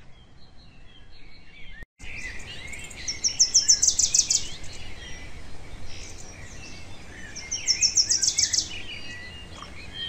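Birds calling: faint chirps at first, then, after a brief dropout about two seconds in, busier high-pitched chirping with a rapid trill that comes twice, each time about a second long.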